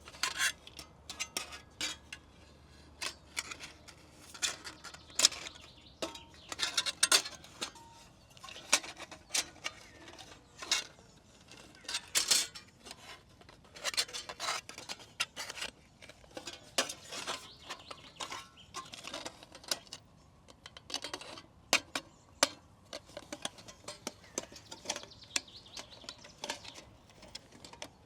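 Small metal camping gear clinking and clattering as it is handled, with irregular sharp knocks and brief ringing taps.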